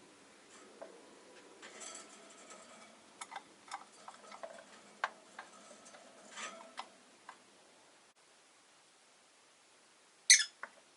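Rosy-faced lovebirds moving about in their cage: scattered small clicks and taps with a little rustling, then one short, sharp chirp falling in pitch near the end.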